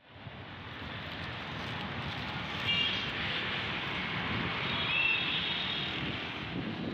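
Outdoor street ambience: a steady wash of traffic noise mixed with wind on the microphone, with a few short high chirps near the middle.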